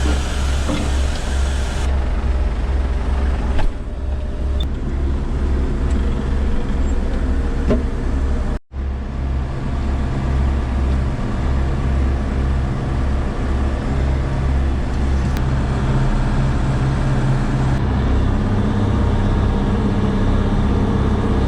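Tractor engine running steadily, heard from inside a poorly insulated cab as a loud low drone. The sound cuts out for an instant about nine seconds in, and its low pitch shifts slightly near the end.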